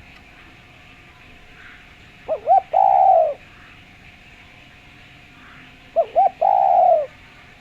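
Spotted dove (derkuku/tekukur) cooing: two short quick notes followed by one longer, falling coo, the phrase given twice about four seconds apart.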